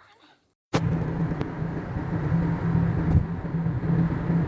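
Steady road and engine noise inside a moving car's cabin, with a low hum, starting abruptly less than a second in.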